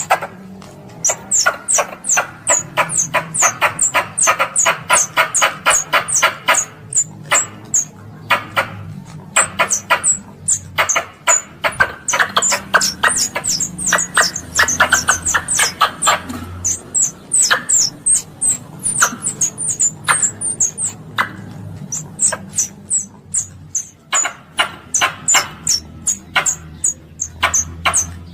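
Squirrel calls: long runs of rapid, sharp chips and chatter, each note a short high squeak falling in pitch, repeated many times a second, broken by brief pauses.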